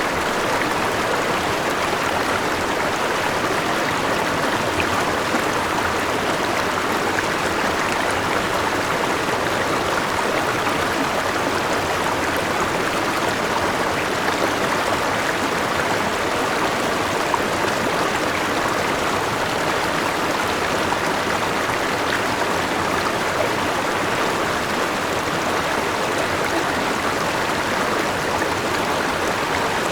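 Forest river rushing steadily over a small waterfall, a constant even wash of water noise.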